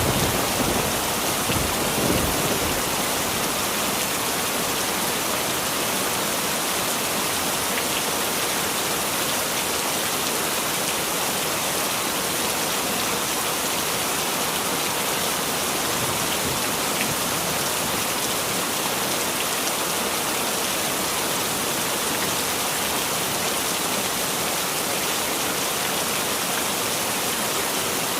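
Heavy rain falling steadily. The last of a thunder rumble dies away in the first two seconds or so.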